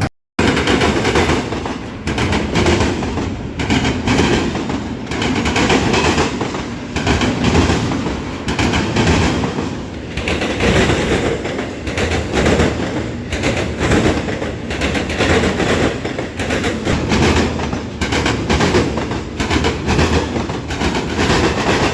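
Train cars rolling past close by, the wheels clattering and knocking over the rail joints in an uneven rhythm, under a steady rumble.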